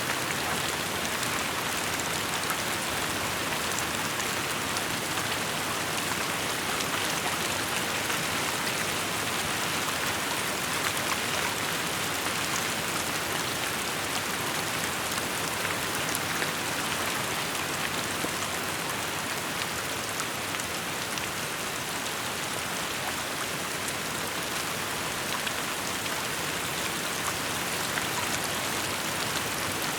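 Steady rain falling, a dense even patter of drops on surfaces without let-up.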